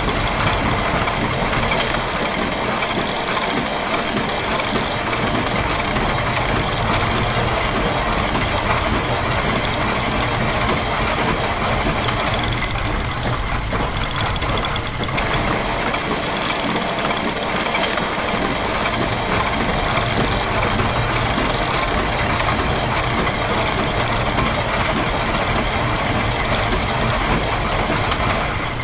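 Layered loops of factory machine recordings (ratchets, gears and other mechanisms) running together as a dense, continuous mechanical clatter with a steady running hum beneath. Near the middle the highest hiss drops away for a couple of seconds, then returns.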